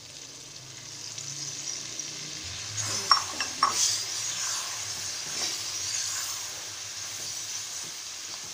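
Freshly added tomato purée sizzling in hot oil with fried spices and mutton in a wok as it is stirred in. The sizzle grows louder over the first few seconds, and the spoon knocks against the pan a few times about three seconds in.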